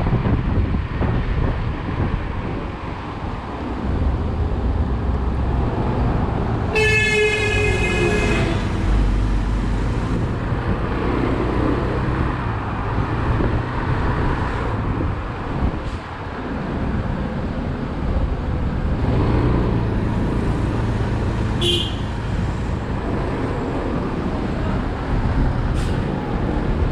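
Motorcycle riding through city traffic, with a steady engine and road and wind rumble. A vehicle horn honks for about a second and a half about seven seconds in, and a short high beep sounds later.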